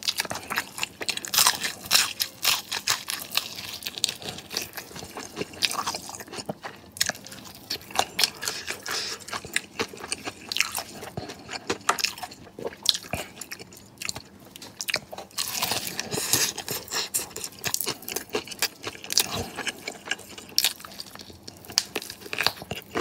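Close-up crunching and chewing of crispy fried chicken wings coated in Samyang sauce, with irregular crackles of the breading as it is bitten and chewed.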